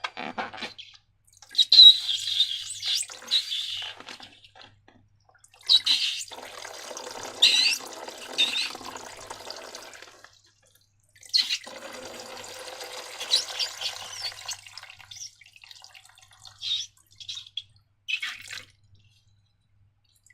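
Wet, sticky slime squelching and pouring in three stretches, followed by a few short clicks near the end.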